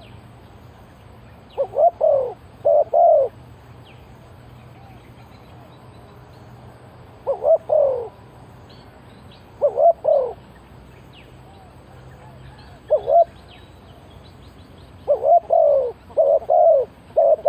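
Spotted dove cooing in short phrases of two to four notes, a few seconds apart, with a longer run of notes near the end. Faint high chirps of small birds sound in the background.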